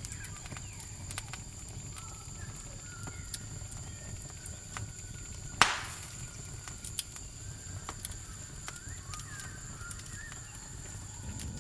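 Campfire crackling with scattered sharp pops and one loud pop about halfway through, over steady high-pitched cricket chirring and a low rumble.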